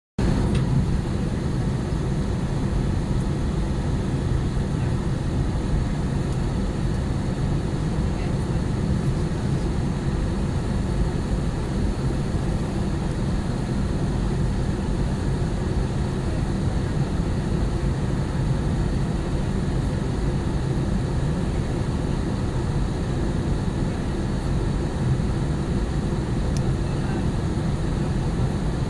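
Steady low rumble of jet engines and rushing air heard inside the cabin of a Wizz Air Airbus A320-family airliner on its approach to land.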